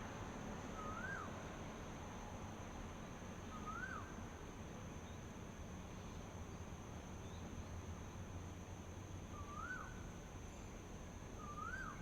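A bird repeating a short whistled call four times, each note rising and then dropping sharply, over a steady high-pitched insect drone and a low background rumble.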